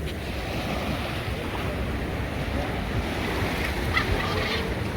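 Sea waves washing in steadily, with wind buffeting the microphone. A few brief high chirps come in near the end.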